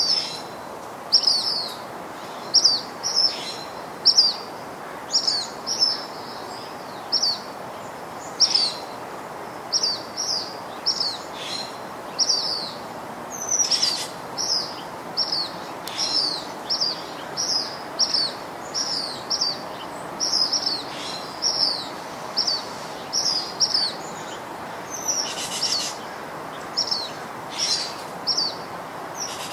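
A bird calling over and over: short, high, downward-sliding chirps in a quick, steady series, over a steady hiss of outdoor background noise.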